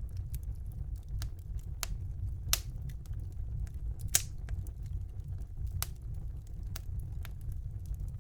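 Wood fire burning in a fireplace: a low steady rumble with scattered sharp crackles and pops, two louder pops a second and a half apart in the middle.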